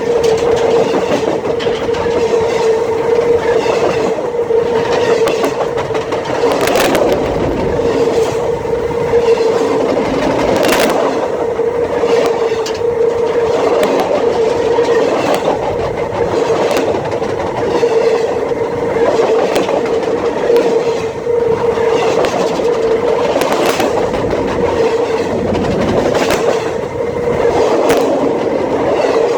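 Freight train cars rolling directly over the camera: a loud steady rumble with sharp wheel clacks every second or two and a steady ringing tone throughout.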